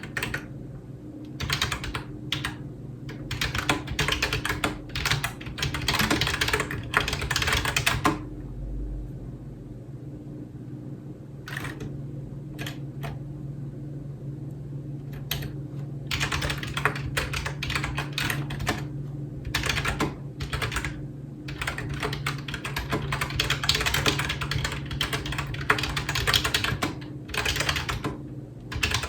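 Fast typing on a computer keyboard in bursts of rapid keystrokes, with a pause of several seconds a third of the way in broken only by a few single key presses before the typing resumes. A steady low hum runs underneath.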